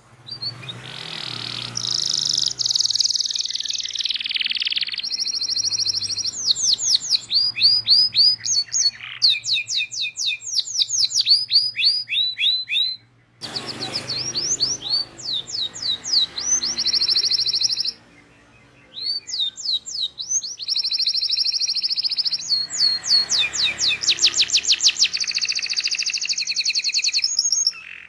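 Canary singing a long song of fast repeated trills and chirps, each phrase a rapid run of the same note. The song breaks off briefly twice, about 13 and 18 seconds in.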